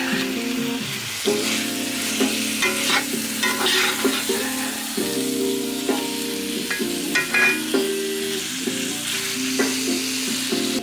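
Diced chicken and onions sizzling in a cast-iron skillet, stirred with a metal spatula that scrapes and taps against the pan now and then. Background music with held notes plays underneath.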